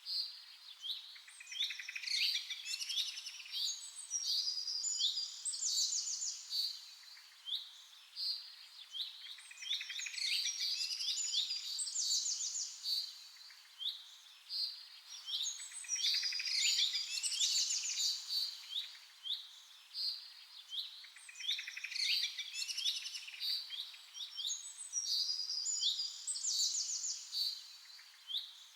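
Several songbirds chirping and trilling together in a busy chorus, short high notes and rapid trills coming in clusters every few seconds.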